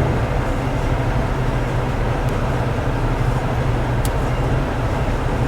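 Steady engine and road noise of a vehicle driving along, a constant low hum under a wash of tyre and wind noise, with one faint click about four seconds in.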